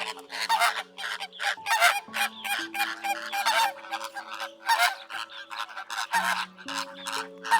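A flock of large birds honking over one another, a rapid run of loud goose-like calls several a second, over soft sustained background music.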